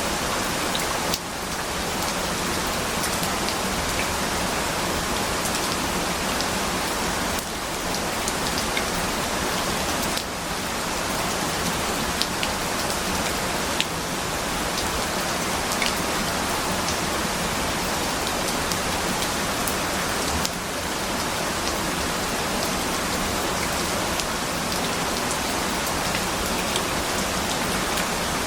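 Steady rain falling, a dense even hiss with individual drops ticking through it.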